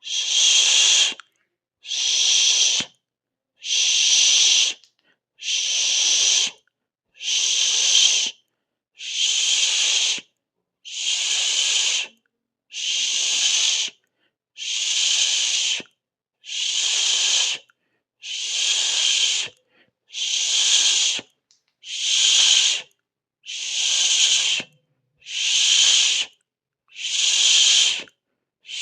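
A person hissing 'shh' through the teeth, over and over for relaxation: about fifteen hisses, each about a second long, one every two seconds or so, with silence between them.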